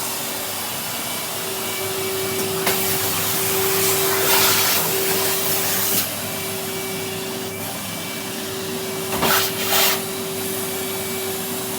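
Vacuum cleaner running, a steady motor hum under a rushing suction noise that swells for a few seconds in the middle and surges twice briefly near the end.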